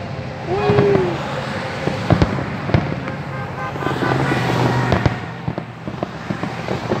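Aerial fireworks bursting in an irregular series of bangs and crackles, over a steady background hum of noise.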